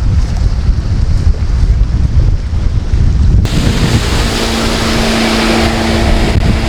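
Wind buffeting the microphone over the outboard motor of a small open boat under way. About halfway through, a louder hiss and a steady engine hum come in.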